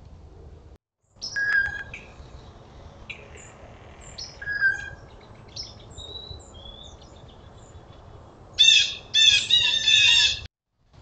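Wild birds chirping and calling in short, scattered notes, then a run of loud, rapid calls lasting about two seconds near the end.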